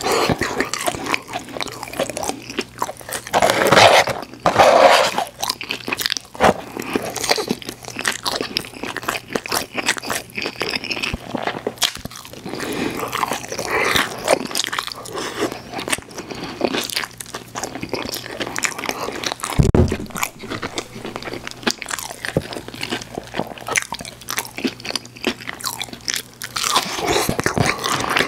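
Close-miked eating of McDonald's chicken nuggets and french fries dipped in cheese sauce: irregular crunching bites and chewing, loudest around four and five seconds in. A low thump comes about twenty seconds in.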